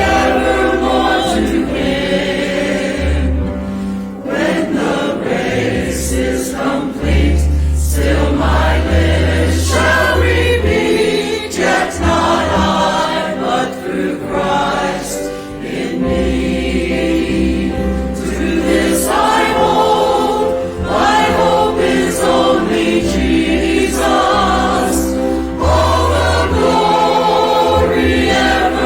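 A choir singing a contemporary hymn arrangement, with sustained low accompaniment notes underneath.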